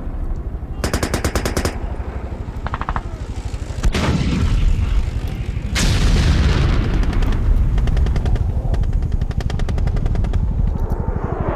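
Battle sound effects: bursts of rapid machine-gun fire, a sharp crack about four seconds in and a heavy blast with a long fading tail about six seconds in, over a steady low rumble.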